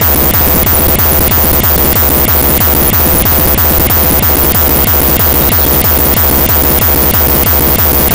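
Loud techno/trance dance music with a heavy, steady bass beat, recorded by a camera microphone that is overloaded and distorting.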